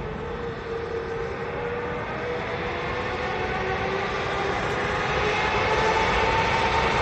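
Jet airliner engines growing steadily louder, with a whine that slowly rises in pitch over a low rumble.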